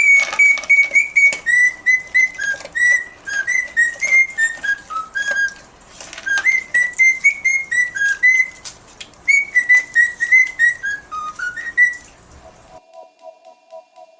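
Parrot whistling a tune: quick, clear notes stepping up and down in three phrases with brief gaps between, ending about three quarters of the way in.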